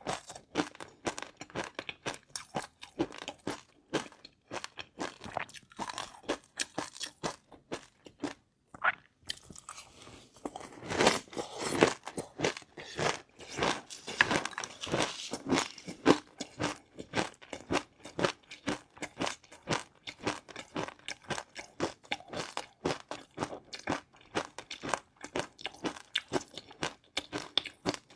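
Close-up eating sounds: rapid crisp crunching and chewing of crunchy food such as a crunchy peanut noodle mix, with a louder, denser stretch of crunching around the middle.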